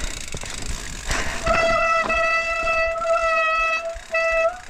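Mountain bike rear freehub buzzing as the bike coasts downhill, a steady high-pitched hum over tyre and trail noise. It stops briefly near the end, then resumes.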